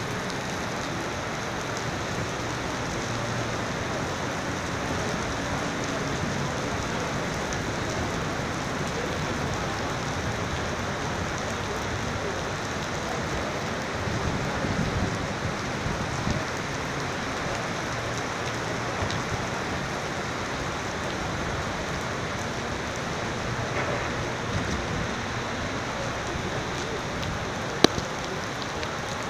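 Steady rain falling, a continuous even hiss. Near the end there is a single sharp click.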